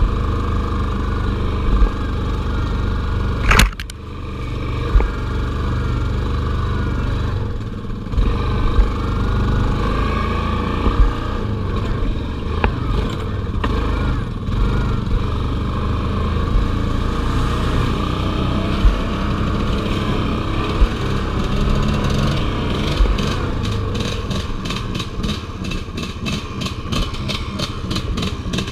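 Off-road vehicle engine running steadily while being ridden, with a sharp knock about three and a half seconds in. Near the end a rapid, even pulsing comes in.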